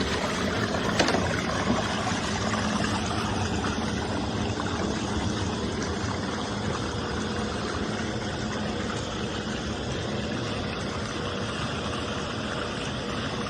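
Steady engine and road noise of a running vehicle, an even rumble and hiss with no sudden events.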